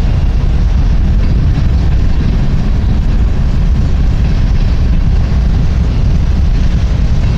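CSX freight train's covered hopper cars rolling past, a steady low rumble with no break.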